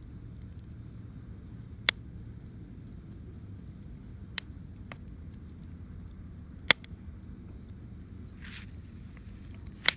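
Wood campfire in a stainless steel fire grill crackling as it catches: a handful of sharp, widely spaced pops, about five, over a low steady rumble.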